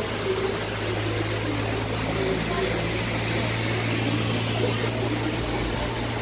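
A steady low machine hum with a murmur of distant voices over it.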